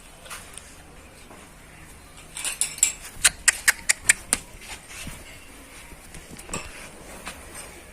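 A quick run of about eight sharp clinks, like metal striking metal, over about two seconds in the middle, against a quiet background.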